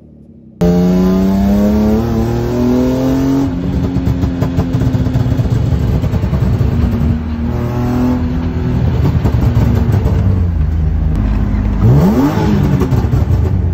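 A 1998 BMW E36 328i's M52 2.8-litre straight-six accelerating hard, heard from inside the cabin, its pitch climbing through the revs and dropping at gear changes, with a quick sharp rev near the end. The exhaust has no catalytic converters: essentially a straight pipe with a cheap muffler.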